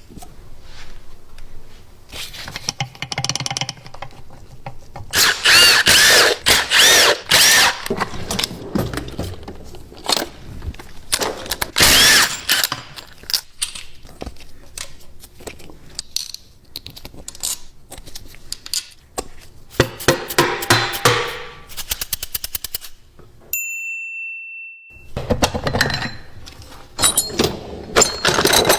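Tools working on metal motorcycle engine parts: irregular clanking, rattling and bursts of rapid metallic impacts. Near the end comes a steady electronic tone lasting about a second.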